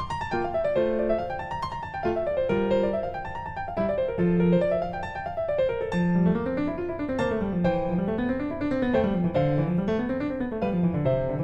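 Background piano music: quick rising and falling runs of notes, with a second, lower line of runs joining about six seconds in.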